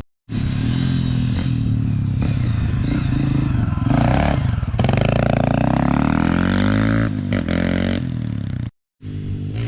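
Dirt bike engine running under throttle, its pitch rising and falling as it revs, with clattering over rough ground. The sound cuts out abruptly twice, just after the start and near the end.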